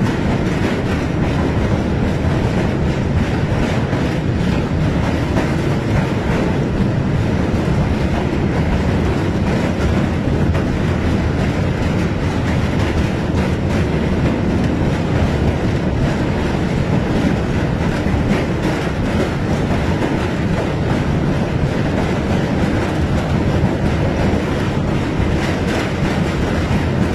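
Passenger train running across a steel truss bridge, heard from inside the carriage: a steady, loud rumble and rattle of the wheels on the rails and the bridge girders.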